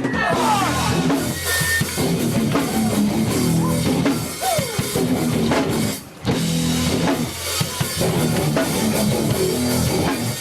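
Live rock band playing loud instrumental: drum kit, guitar and bass, with a brief stop about six seconds in before the band comes back in.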